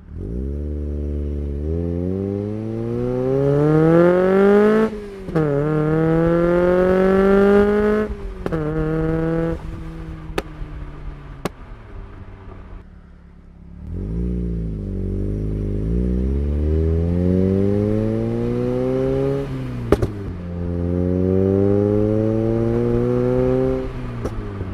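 Mazda Miata NB2's 1.8-litre four-cylinder with an aftermarket header, mid-pipe and axle-back exhaust, heard from inside the cabin, accelerating hard: the revs climb steeply, dip at an upshift and climb again. The driver lifts off at about eight seconds and the revs fall, with a few sharp exhaust pops from its pops-and-bangs tune. From about fourteen seconds it pulls hard again through two more shifts, cracking at each one.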